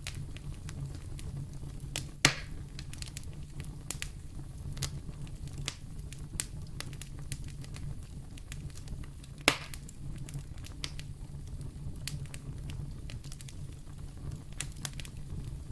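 Wood fire in a fireplace crackling steadily over a low rumble, with two louder pops, one about two seconds in and one a little past the middle.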